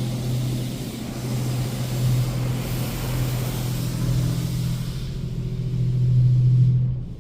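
Touch-free car wash rinse heard from inside the car: water spraying onto the body over the steady hum of the wash's pump, the spray heaviest in the middle. The spray and hum cut off near the end.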